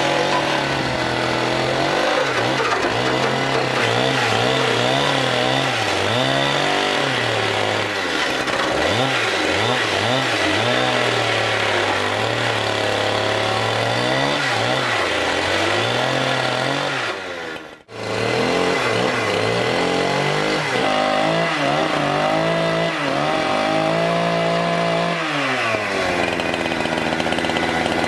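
Chainsaw running and cutting wood, its engine pitch rising and sagging again and again as the throttle is worked and the chain bites. It cuts out briefly about two-thirds of the way through, then runs on.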